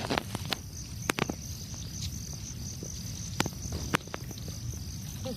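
Insects trilling steadily in a high thin tone, cricket-like, with scattered sharp clicks and taps over it.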